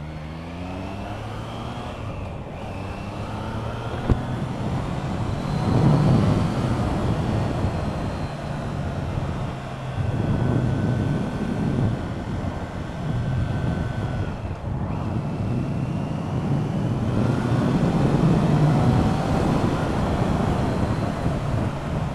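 Triumph Trident 660's three-cylinder engine riding under load, its pitch rising as it accelerates, with heavy wind rush over the microphone that swells and fades. The sound dips briefly twice and there is one sharp click about four seconds in.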